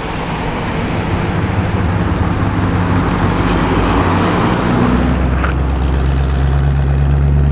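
Holden with a V8 engine running at low revs as it drives in slowly: a steady, low engine note that grows louder.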